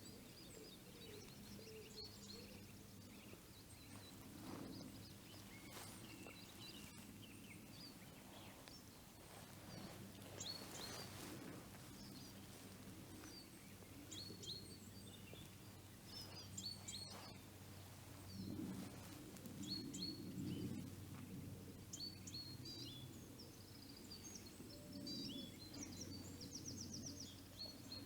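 Small forest birds calling faintly with many short, high chirps, one giving a quick rapid trill near the end, over a steady low hum.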